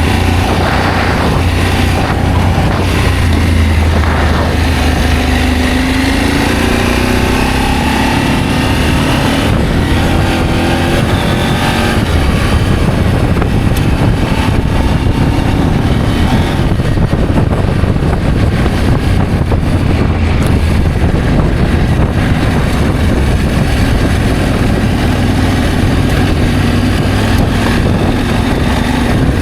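Adventure motorcycle engine running on the move, its note rising and falling with the throttle, over a steady rushing noise.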